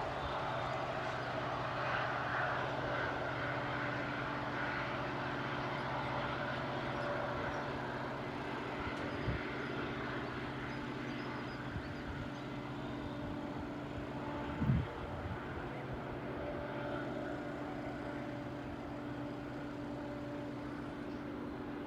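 A steady, distant engine drone that slowly fades, with a couple of short thumps in the middle.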